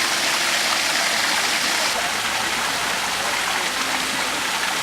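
Steady rushing of flowing water, loud and even.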